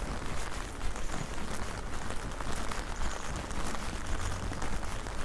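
Strong rain falling steadily, a dense even hiss full of small drop ticks.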